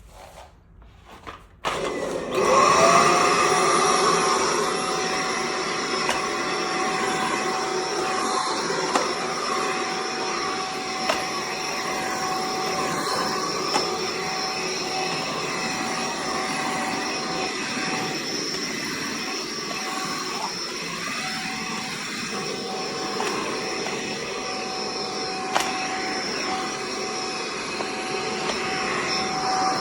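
Tineco Pure ONE S15 cordless stick vacuum switched on about two seconds in, its motor whining up to speed over about a second, then running steadily.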